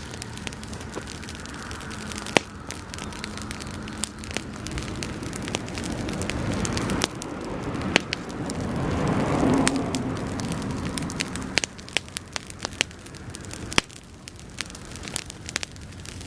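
Bonfire of dry grass burning, with frequent sharp crackles and pops over the steady sound of the flames. About halfway through, a louder rush of flame swells up and dies back down.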